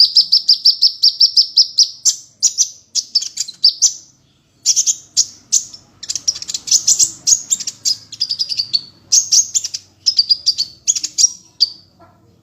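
A small songbird singing rapid, high chirps: an even trill for the first two seconds, then short bursts of chirps with brief pauses. It is a recorded tutor song (masteran) of the kind played to white-rumped shamas for them to learn.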